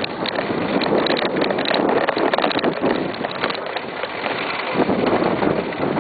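Wind buffeting the microphone of a camera carried on a moving bicycle, a dense rushing noise with scattered light clicks and rattles through the first half.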